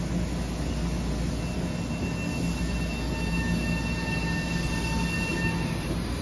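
Metro-North commuter train moving slowly past a station platform, with a steady rumble of wheels on rail. From about two seconds in, a faint steady whine of several thin high tones joins it.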